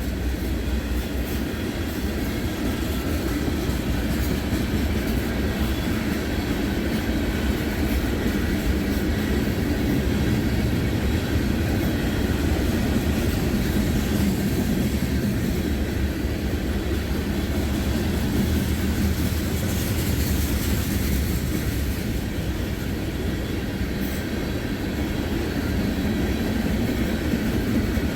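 Loaded freight cars rolling past on the rails, a steady rumble of wheels on track.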